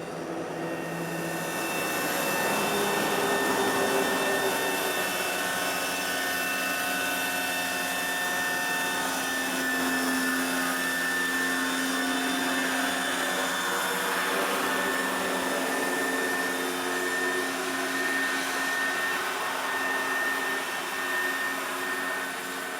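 Quarter-scale radio-controlled MD500E model helicopter in flight: a steady whine from its motor and rotors with several held tones, swelling over the first few seconds and easing slightly near the end.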